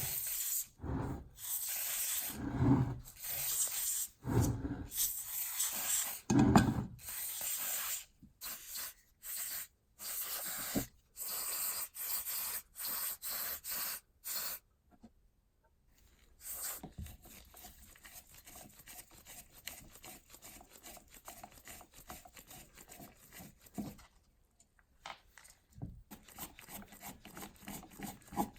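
Repeated abrasive rubbing strokes by hand on a rusty antique ship compass part, as in cleaning off rust. For about the first half they are loud, roughly one a second, some with dull thumps. After a short pause about halfway through, they come quieter and quicker.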